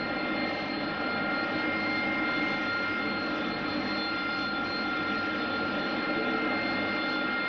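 Jet aircraft engines running steadily: a broad, even rush with a constant high whine of several tones on top, neither rising nor falling.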